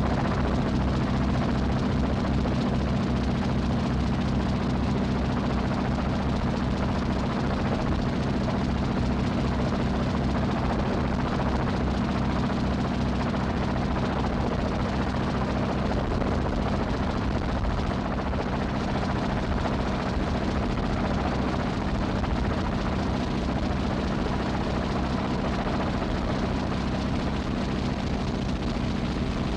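A steady, unchanging low engine drone that neither rises nor falls.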